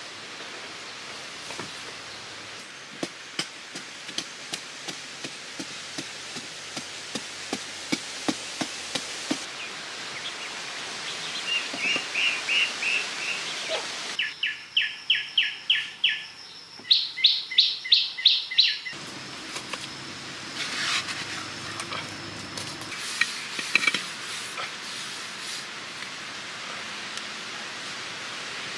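Forest ambience with a bird calling in rapid trains of high chirps, loudest through the middle, over a steady outdoor hiss. Scattered light taps and knocks from hand work come and go, most often early on.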